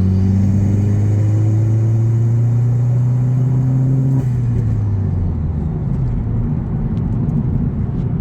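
Vauxhall Corsa VXR's 1.6-litre turbocharged four-cylinder engine through a cat-back exhaust, pulling under load with its note rising steadily for about four seconds. Then the throttle is lifted and the engine note drops away, leaving a steady road rumble.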